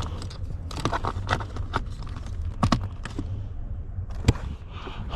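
Irregular clicks and knocks of something being handled, over a steady low hum; the sharpest click comes about four seconds in.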